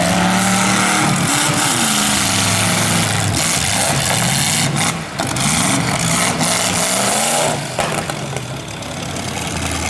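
Demolition derby car engine revving several times in a row, its pitch climbing and falling with each blip of the throttle, then settling back to a rougher, lower running near the end.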